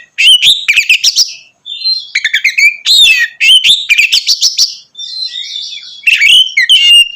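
Oriental magpie-robin (kacer) singing loudly in quick, varied whistled phrases mixed with sharp chattering notes, with a couple of brief pauses.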